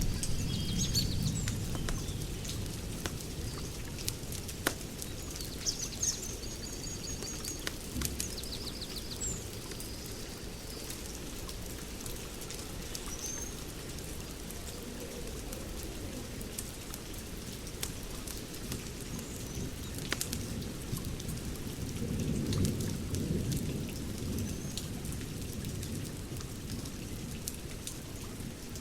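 Wood fire crackling, with scattered sharp pops over a low rumble that swells briefly near the end. Birds chirp in the first several seconds.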